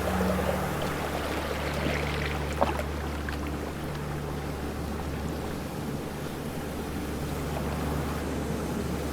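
Ocean waves washing steadily, with a low steady hum underneath and a single sharp click about two and a half seconds in.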